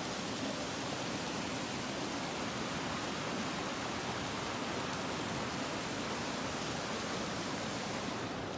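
Steady, unbroken rush of flowing water in a mountain stream.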